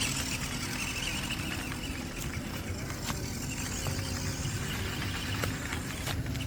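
Small electric RC off-road car (MN99S D90 scale crawler) driving, its motor and gears running steadily, with a few light clicks.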